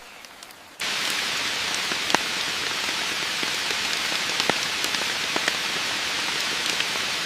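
Steady heavy rain with close, separate drop hits scattered through it. It starts suddenly about a second in.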